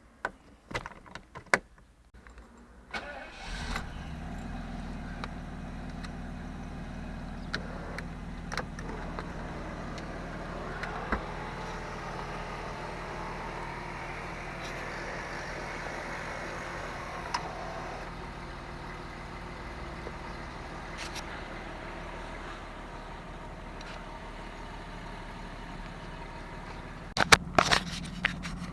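Jaguar V12 engine starting about three seconds in, after a few sharp clicks, then idling steadily. A burst of sharp clicks comes near the end.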